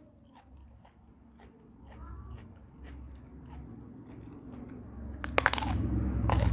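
Close-up eating sounds: soft chewing clicks, then about five seconds in a loud crunch as a bite is taken into a crunchy raw vegetable, followed by crunchy chewing.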